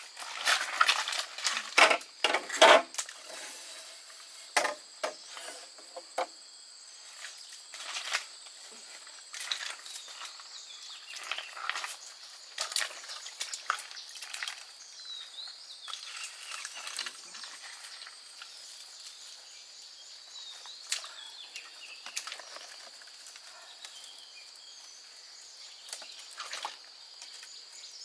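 Irregular crackles, clicks and rustles of sticks and dry leaves being handled or trodden on, loudest and thickest in the first three seconds, over a steady high-pitched drone of insects.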